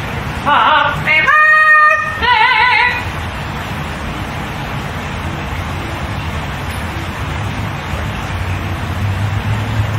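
A high voice sings a few held notes with a strong, wobbling vibrato, stopping about three seconds in. A steady hiss with a low hum follows, swelling slightly near the end.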